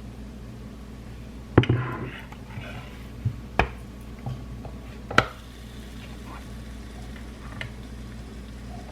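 Kitchen clatter of dishes and utensils: a few sharp knocks, the loudest about a second and a half in and another about five seconds in, over a steady low hum.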